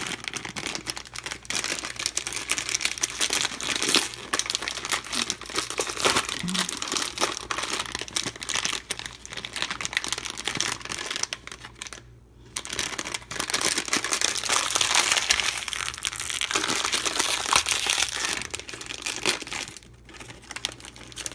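Crinkly foil blind-bag packet being handled, crumpled and torn open by hand: dense, irregular crackling with a short pause about twelve seconds in.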